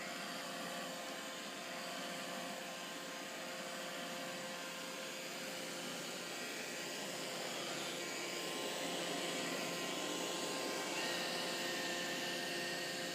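Steady whirring hum of a small motor with several steady whining tones over it; a higher whine comes in about eleven seconds in.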